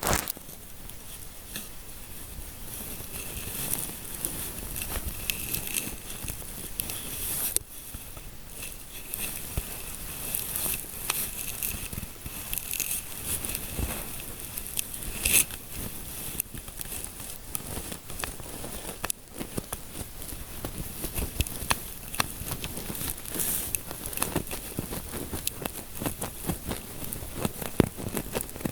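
Close-miked fingertips scratching and rubbing through hair in an ASMR scalp massage: a steady, dense crackling made of many small scratches, with a few louder pops.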